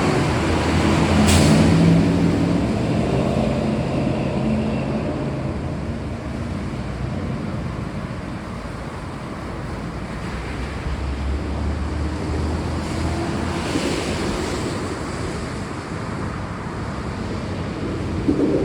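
Steady rain hiss with low rolling thunder: one rumble near the start and another about eleven seconds in.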